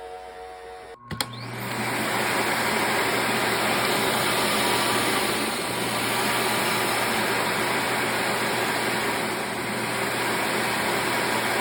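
Samsung Bespoke Jet AI vacuum running: a faint hum, then a click about a second in, and the suction motor comes on with a loud, steady rush of air that holds evenly.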